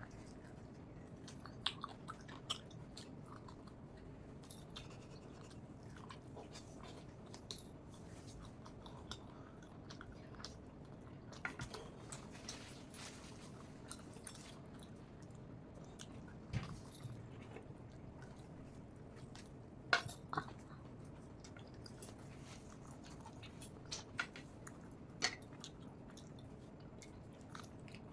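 A person chewing food close to the microphone: short, sharp mouth clicks and smacks at an uneven pace over a faint steady background.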